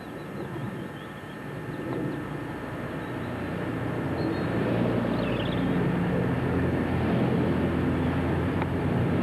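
A steady engine drone that grows gradually louder, with a few faint bird chirps about halfway through.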